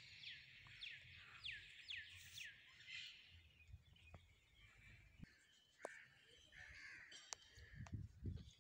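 Faint outdoor bird calls: a quick run of repeated falling notes in the first couple of seconds, then scattered rougher calls, with a few sharp clicks.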